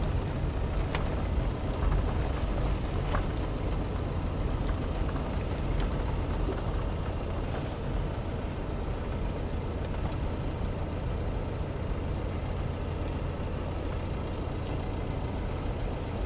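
Road and engine noise heard inside a moving car: a steady low rumble, with occasional short knocks and rattles from the rough road.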